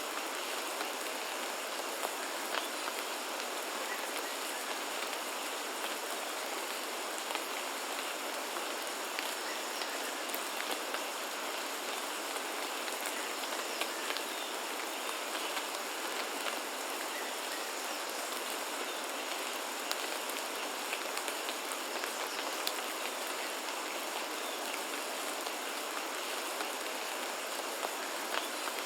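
Steady rain falling in a rainforest, an even hiss with many individual drops ticking on surfaces.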